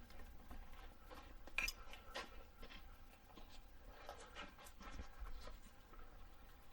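Faint scattered clicks and scrapes of hand-tool work on a brake line fitting, with one sharper click about a second and a half in.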